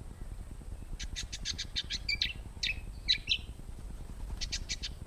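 A bird calling: a quick run of sharp chirps about a second in, a few louder notes between two and three and a half seconds, and another quick run near the end. A steady low rumble runs underneath.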